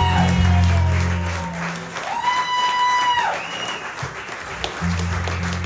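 Audience applauding over the song's closing music: long held notes, with a low bass that drops out about a second and a half in and comes back near the end.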